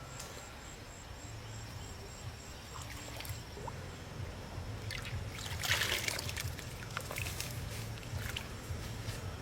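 Water trickling and sloshing over a low steady hum, with a louder surge of water noise about six seconds in.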